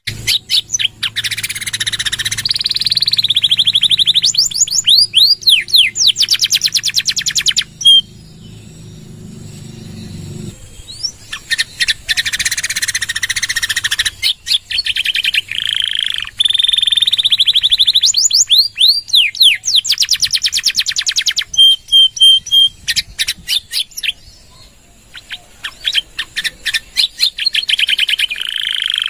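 Domestic canary singing a long, loud song of rapid trills and repeated sweeping notes, in phrases broken by two short pauses. A steady low hum lies under the first third.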